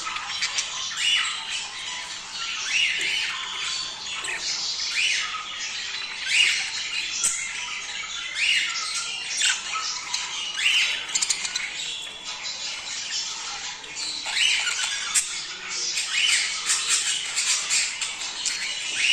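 A flock of small pet parrots chattering and squawking continuously, many short overlapping calls several times a second, the breeding chatter used to stimulate budgies and lovebirds to mate.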